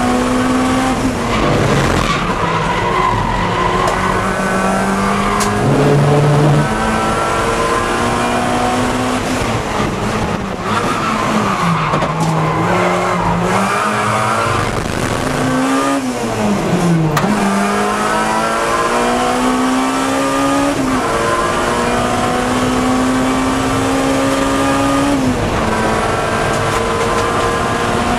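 Acura Integra Type R four-cylinder race engine under hard load on track. The engine note climbs slowly for several seconds at a time, with sharp drops at shifts and a dip and rise while braking into a corner. Tyres squeal at times through the corners.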